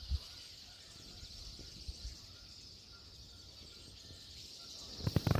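Dense, steady chorus of a large flock of songbirds chirping and twittering together, a continuous high-pitched wash of calls. A few low thumps near the end.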